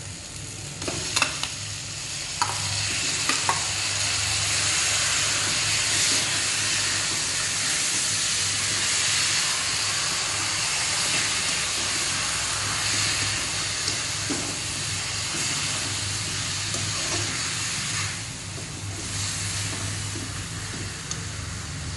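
Chicken pieces going into a kadai of hot oil, fried onion and tomato, with a few clinks of bowl and spoon in the first few seconds. Then a steady sizzle of the chicken frying, which eases off a little near the end.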